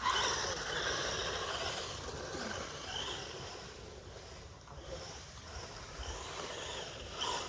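Brushless 1/10 scale Maverick Strada RX rally car driving on a dirt woodland path: the electric motor's whine mixed with the tyres scrabbling over the ground, fading about halfway through and growing louder again towards the end.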